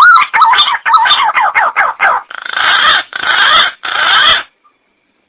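Green pigeon (punai) calling: a rapid run of short falling whistled notes, then three rougher, noisier calls, stopping abruptly about four and a half seconds in.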